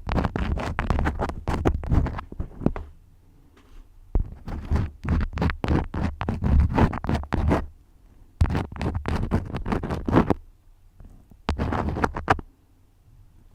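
Crayons scribbling in close-miked quick scratchy strokes with a low rumble under them. The strokes come in four runs, each of about one to three seconds, with short pauses between.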